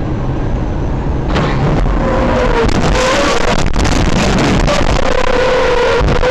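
Loud car noise: an engine running with a wavering whine over a heavy steady rush. It grows louder about a second in.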